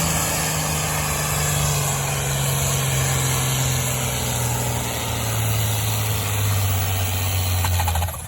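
A pulling vehicle's engine running loud and steady under load on the track, its pitch falling slowly over several seconds. It breaks off abruptly near the end.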